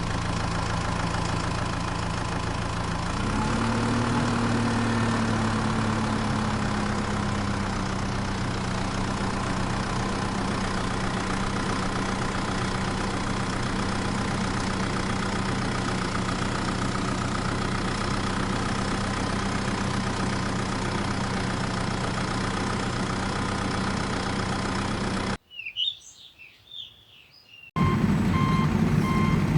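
Vehicle engine sound running steadily, rising in pitch about three seconds in and then settling. It cuts off near the end, followed by a short quiet stretch with high chirps, then a vehicle's reversing beeps.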